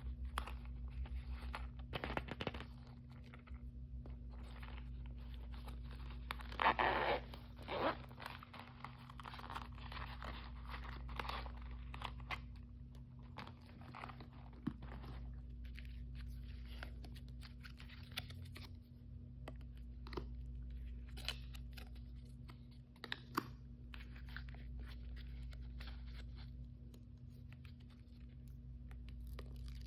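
Plastic blind-bag packaging being handled and torn open by hand: irregular crinkling, rustling and small clicks, with the loudest tearing crackle about seven seconds in. A steady low hum runs underneath.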